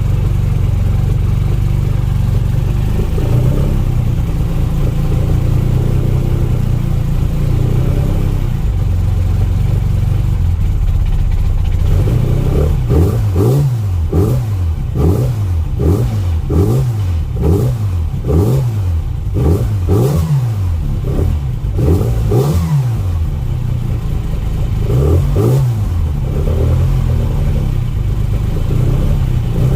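Classic Mini's 1380 A-series engine warming up after a cold start: running steadily at first, then blipped over and over from about twelve seconds in, the revs rising and falling roughly once a second, with a short pause near the middle of the blipping.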